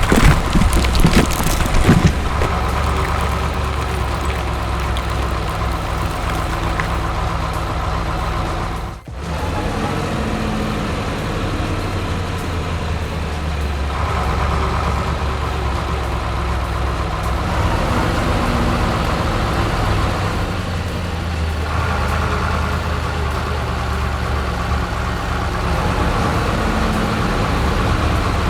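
Heavy vehicle engine running steadily at idle, with a few knocks in the first two seconds and a brief break about nine seconds in.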